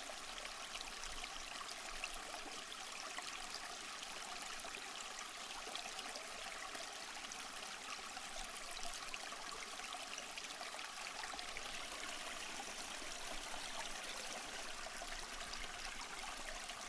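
Flowing water from a stream, a steady soft trickle and rush.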